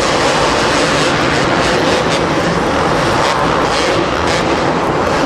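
Two-stroke supercross motorcycle engines running hard on track, a loud steady buzz.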